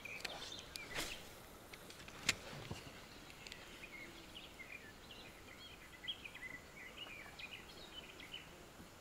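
Faint chirping of small birds: an irregular string of short high calls starting about three seconds in. A few sharp clicks come in the first couple of seconds.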